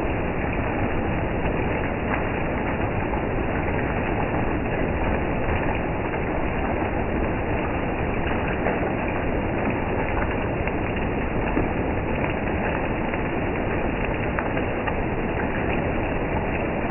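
Heavy rain falling steadily on the leaves of trees and undergrowth, an even, unbroken hiss of rain.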